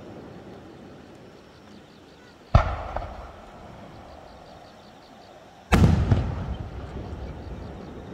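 Aerial fireworks shells going off: two loud, sharp bangs about three seconds apart, the second the louder, each followed by a rolling rumble and a fainter echoing crack.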